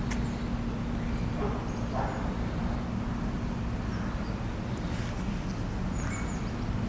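Outdoor park ambience: a steady low rumble with a faint constant hum. Two short calls come about one and a half and two seconds in, and there are faint high bird chirps.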